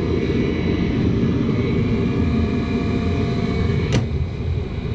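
Rheem furnace running after firing up: a steady roar of burner and blower, with one sharp click about four seconds in.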